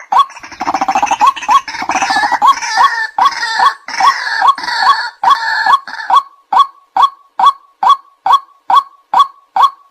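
White-breasted waterhen calling: a steady string of kwak notes, about two to three a second. From about half a second in until about six seconds, a denser, harsher chorus of overlapping calls runs over the string.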